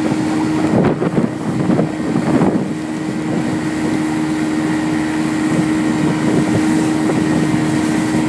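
Motorboat engine running steadily at cruising speed, a constant drone, with wind buffeting the microphone and rougher gusts about a second in and again about two and a half seconds in.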